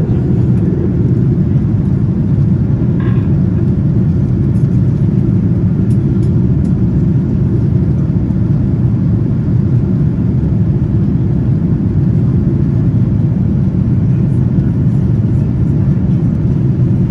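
Steady low cabin rumble of a Boeing 787-9 in flight: GEnx engine and airflow noise heard from inside the passenger cabin.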